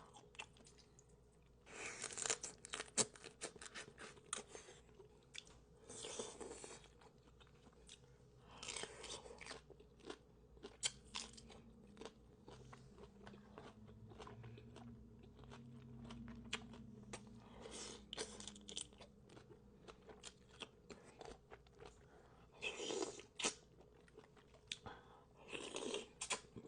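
Close-miked eating of seafood-boil crab legs: shells cracking and crunching in short bursts every few seconds, with chewing between them.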